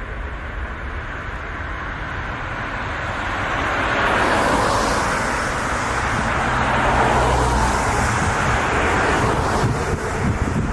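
Jet airliner's engines passing, a steady rushing noise that swells about four seconds in and stays loud, with low wind rumble on the microphone.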